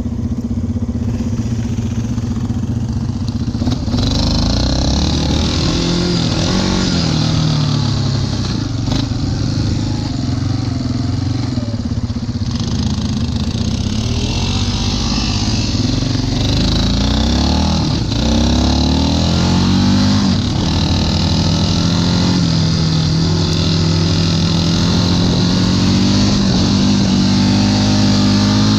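Yamaha Wolverine ATV engine running under way, its pitch rising and falling repeatedly as the throttle is opened and eased, then holding steadier and higher near the end.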